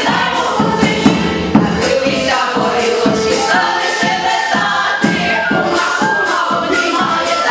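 A song performed with a steady beat, with group voices singing that sound like a choir.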